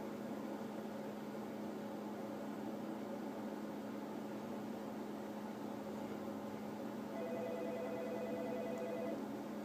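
Steady low electrical hum; about seven seconds in, a rapidly pulsing electronic tone, like a telephone ring, sounds for about two seconds and stops.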